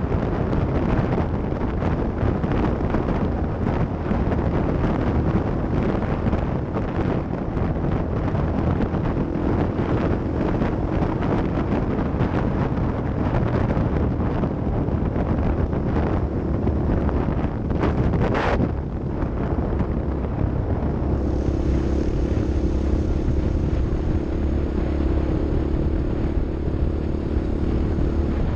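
Off-road vehicle's engine running continuously, with wind noise on the microphone. A sharp knock about two-thirds of the way through, after which the engine note turns steadier.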